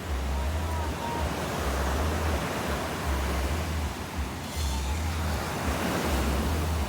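Surf washing on a beach as a steady hiss, with wind buffeting the microphone in low rumbles that come and go every second or so.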